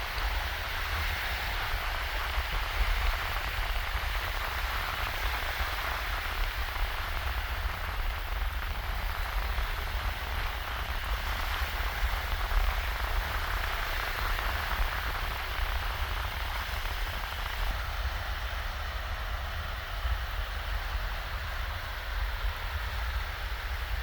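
Shallow waves washing steadily onto a sandy beach, an even hiss of small surf with a constant low rumble underneath.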